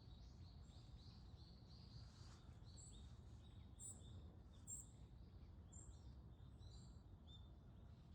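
Faint chirping of several small birds, many short high calls a second, over a steady low rumble.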